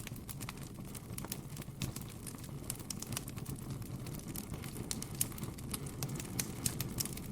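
Campfire crackling, with frequent irregular sharp pops and snaps over a steady low noise.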